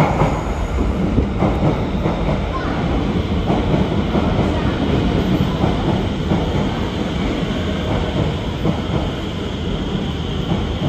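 Alstom Movia R151 metro train pulling into the platform and running past at close range: a steady rumble of wheels on rail with a few faint clacks, and a thin high whine that comes in about halfway.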